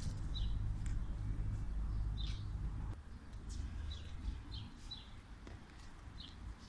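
Small birds chirping, short high notes repeated every second or so, over a low rumble that drops away about three seconds in.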